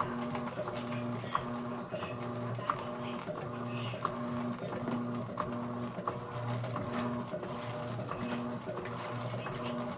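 Electrolux Essential Care LES11 washing machine running a wash cycle. Its motor hum comes in short even pulses, a little over one a second, with light clicks in between.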